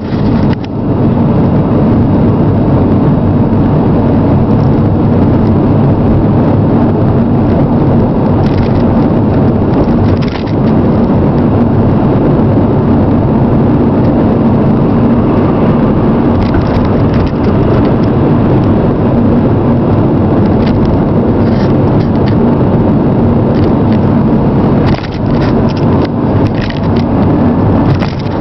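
Chrysler Sebring sedan driving, with steady loud road and running noise and a few brief knocks scattered through it.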